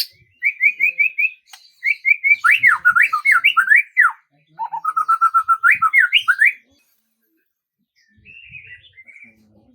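A songbird singing a long varied phrase. It opens with a quick run of repeated whistled notes, moves into fast up-and-down whistled sweeps, then a lower trill of repeated notes that ends in rising sweeps. After a pause of about a second and a half, softer twittering starts near the end.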